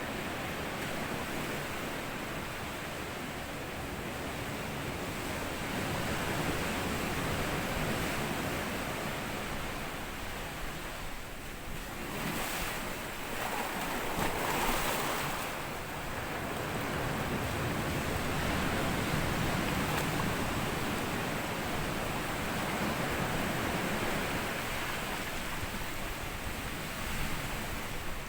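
Sea waves washing up on a sandy shore: a continuous rushing surf that swells and ebbs, with one louder, brighter wash about halfway through.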